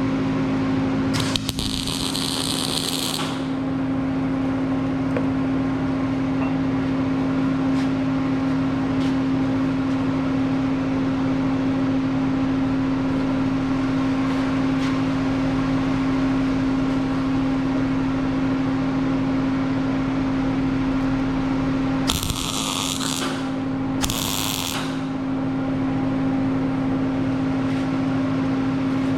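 Steady fan hum, broken three times by short crackling hiss bursts of a welding arc, each a second or two long: one about a second in, two more about 22 and 24 seconds in.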